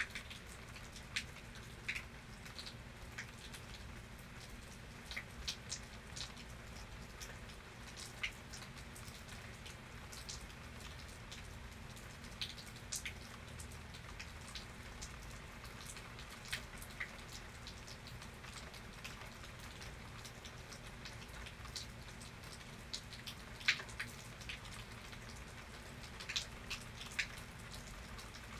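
Steady rain falling, with scattered single drops ticking sharply on a nearby surface, a few each second.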